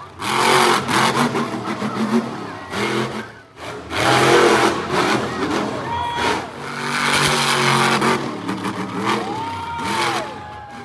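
Monster truck engine revving hard in three surges of a second or two each, its pitch climbing and falling between them.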